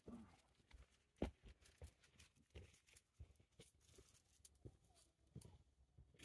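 Faint footsteps on a hiking trail: irregular soft steps and light ticks, with one sharper click about a second in.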